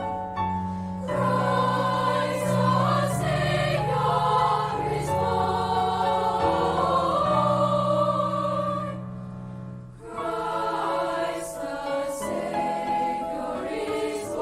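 A student choir singing over sustained low accompanying notes. The sound dips briefly about nine seconds in, between phrases, and then the singing resumes.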